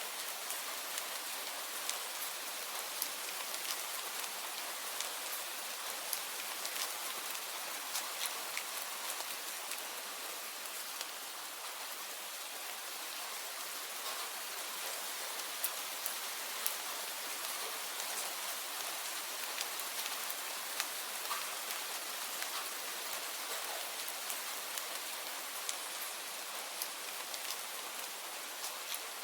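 Steady rain, its even hiss dotted with many sharp individual drop impacts.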